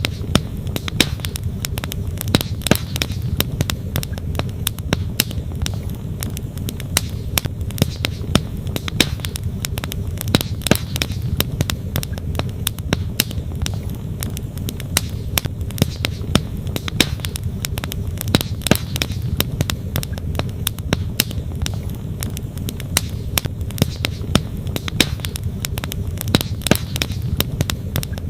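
Wood campfire crackling with frequent sharp pops, over the steady rush of a flowing stream.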